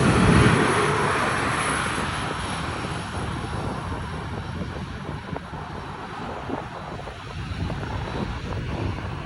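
Canadian North airliner passing by, its engine noise loudest about half a second in and then fading steadily away.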